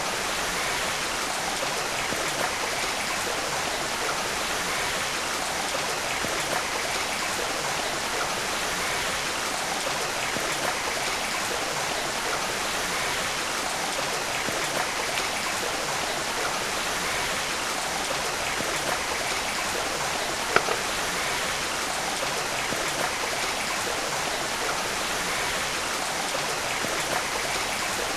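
Steady rushing of running stream water, with one sharp click about twenty seconds in.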